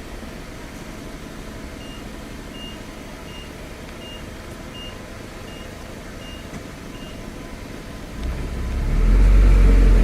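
Backup alarm of a construction vehicle, about eight short high beeps roughly one and a half a second, over a low engine rumble. Near the end a much louder low rumble builds up.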